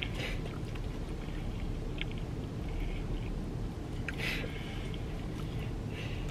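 Faint eating noises, chewing and small mouth and fork sounds, every second or two over a low steady hum.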